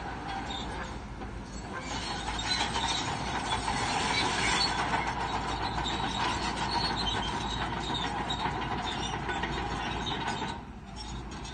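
Crawler bulldozer working, its engine running under the clanking and high, steady squeal of its steel tracks. The sound grows louder about two seconds in and drops briefly near the end.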